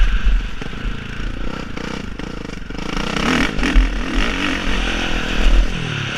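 Motocross motorcycle engines revving, their pitch rising and falling as the throttle opens and closes.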